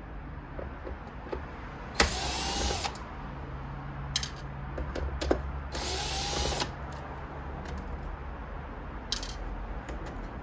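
Electric screwdriver with a T10 Torx bit backing out the display screws of a mid-2011 iMac. It runs in two short bursts of about a second each and a brief third near the end, with small clicks in between.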